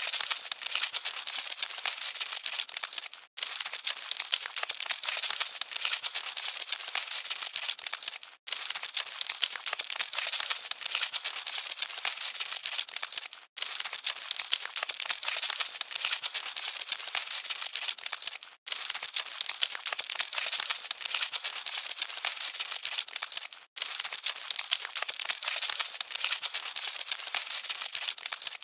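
Dense, fine crackling and rustling of scuttling cockroaches. It comes as a repeating loop that breaks off for a split second about every five seconds.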